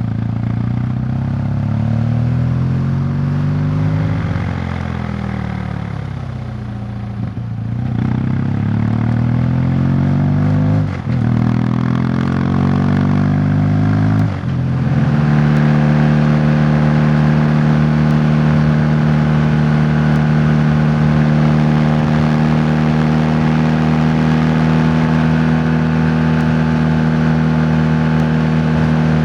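Motorcycle engine on the move: it slows for several seconds, then picks up speed through two gear changes, marked by short dips near the middle. After that it settles into a steady cruise.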